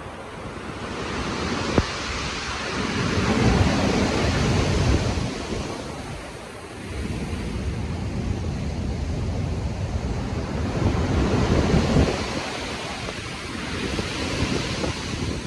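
Stormy sea surf: waves breaking and washing in, in three rising and falling surges. There is one short sharp snap about two seconds in.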